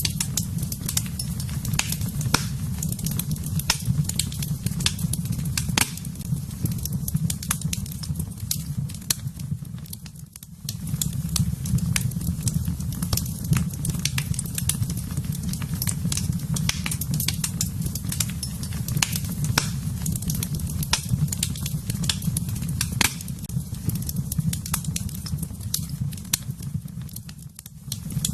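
Wood fire in a fireplace, crackling with frequent sharp pops over a steady low rumble of flames. The sound briefly softens twice, about ten seconds in and just before the end.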